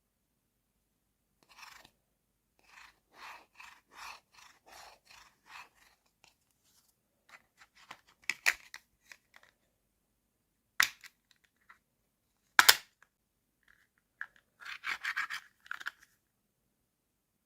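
Small plastic toy kitchen pieces handled by hand: a run of short rubbing, scraping strokes at about two a second, then scattered small clicks and two sharp loud clicks, and a last brief burst of scraping.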